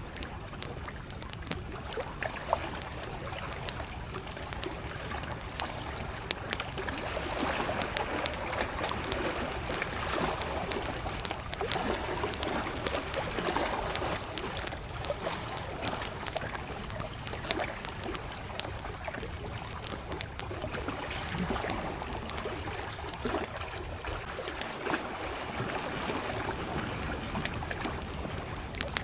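Campfire crackling with frequent sharp pops, over small lake waves lapping and splashing at the shore in gentle swells.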